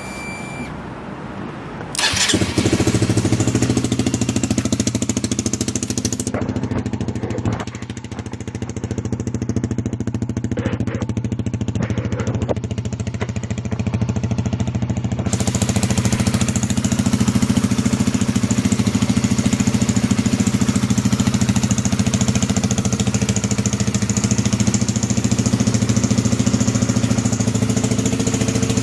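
Honda CBR150R's single-cylinder four-stroke engine, fitted with an Endurance stainless sports muffler with a round aluminium silencer, starts on the electric starter at the first try about two seconds in, then idles steadily through the aftermarket exhaust.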